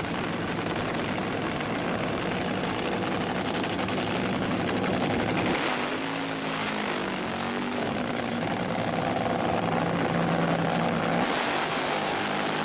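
A machine running steadily, a low hum over a hiss, its pitch wavering a little about halfway through.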